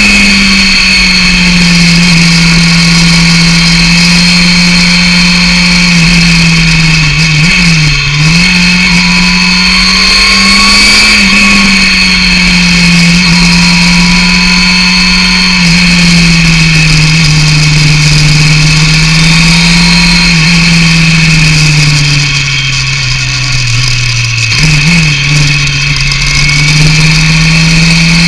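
Yamaha FZR 600 inline-four running through a BOS aftermarket exhaust under way, its engine pitch rising and falling steadily with the throttle. The pitch dips briefly about a third of the way in, and near the end it sags and then jumps back up.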